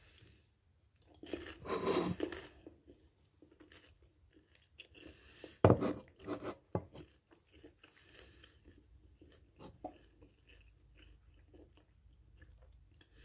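Close-up chewing of a mouthful of food, with a louder stretch of chewing about two seconds in. A single sharp knock, the loudest sound, comes a little before the middle.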